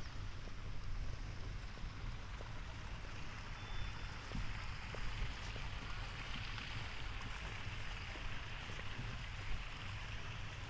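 Outdoor ambience: a steady low rumble with a hiss over it and scattered faint light ticks.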